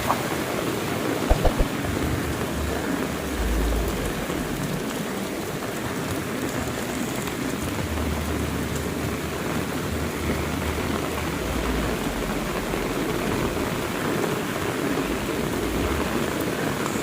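Heavy rain falling steadily. There are three sharp knocks about one and a half seconds in, and a low rumble comes and goes a few times.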